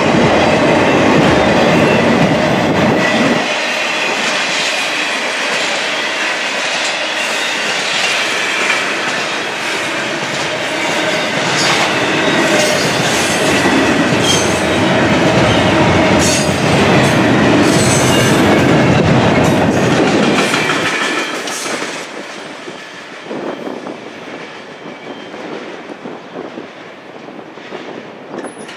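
Intermodal freight cars carrying highway trailers and double-stacked containers rolling past, wheels clacking and rumbling steadily. About 21 seconds in the sound drops away as the end of the train passes and recedes into the distance.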